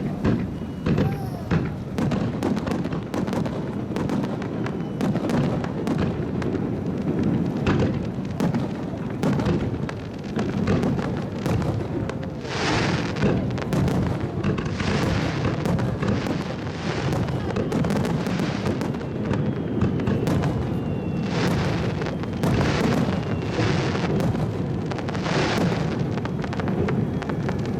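Fireworks display: a dense run of booms and sharp bangs. In the second half, several longer hissing crackles come roughly every one to two seconds.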